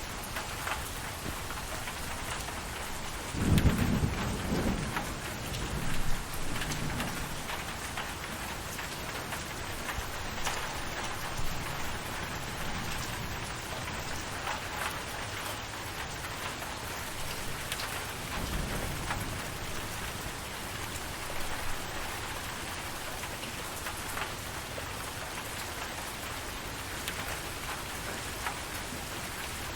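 Steady rain falling, with rolling thunder: a loud low rumble a few seconds in that rolls on for about three seconds, and a fainter one past the middle.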